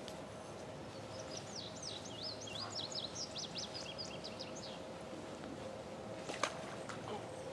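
A songbird singing a rapid warbling phrase of quick up-and-down whistled notes for about four seconds, over steady outdoor background noise and a faint steady hum. A short click near the end.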